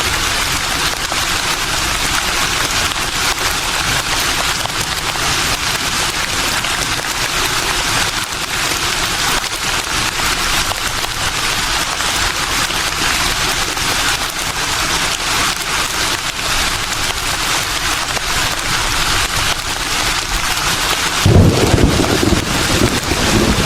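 Leaves rustling in a steady breeze, an even crackly hiss. Near the end a louder, low rumbling gust comes in.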